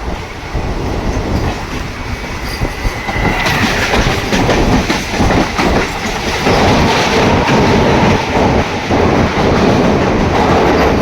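Mumbai local suburban train running on the rails, wheels clattering, with a brief high whine just before the sound grows louder about three and a half seconds in.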